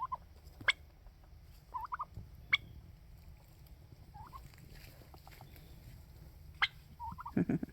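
Domestic turkeys calling: short, high, wavering notes every couple of seconds, with a louder, lower call near the end. A few sharp clicks are mixed in.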